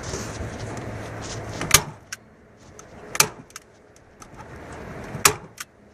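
Three sharp clacks, about a second and a half to two seconds apart, over a low steady hum that fades out about two seconds in.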